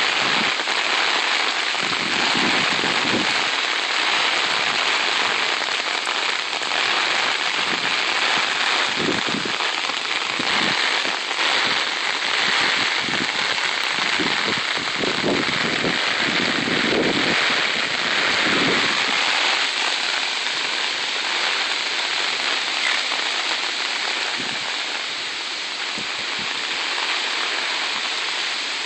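Heavy hurricane rain pouring down in a steady hiss, with a few low rumbles in the middle.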